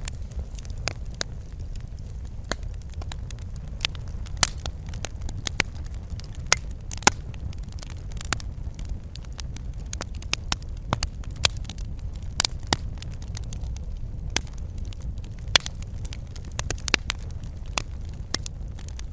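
Wood fire crackling in a fireplace: irregular sharp snaps and pops, a few louder ones, over a steady low rumble of burning.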